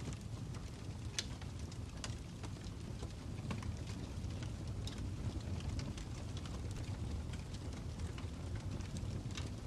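Fire crackling: a steady low rumble with irregular sharp pops and snaps scattered through it, the strongest about a second in, about two seconds in, and near the end.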